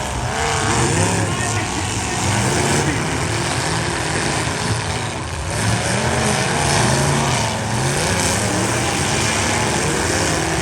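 Several demolition derby cars' engines revving up and down at once, their pitches rising and falling over each other.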